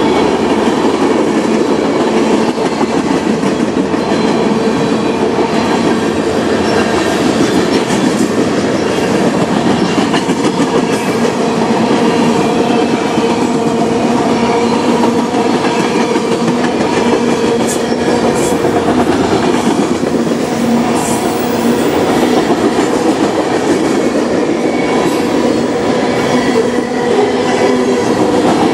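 Freight cars of a manifest train rolling past at close range: a steady, loud noise of steel wheels running on the rails.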